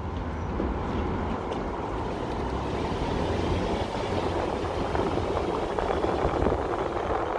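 Steady driving noise of a Toyota Land Cruiser Prado 150 under way, a rumble of tyres and road with light ticking and rattling through it.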